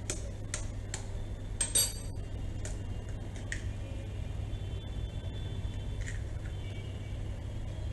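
A spoon tapping an egg to crack its shell: a handful of sharp taps and clinks against a dish, the loudest about two seconds in, fewer after the first few seconds, over a steady low hum.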